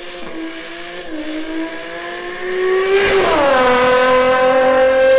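A person's voice imitating a sports car's engine: a slowly rising engine note, then about three seconds in a sudden louder shift that dips and holds a steady higher note, like a revving car changing gear.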